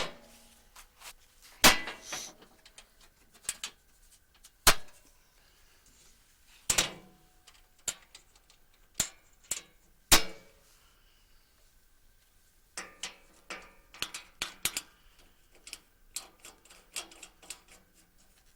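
Metal parts and tools knocking and clanking during a sawmill blade change: several sharp knocks, some with a short metallic ring. About two-thirds of the way through they give way to a quicker run of lighter clicks and clacks.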